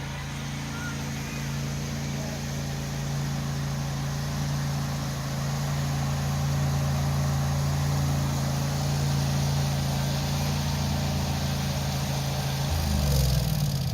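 Tractor engine running steadily, then slowing with a falling pitch near the end.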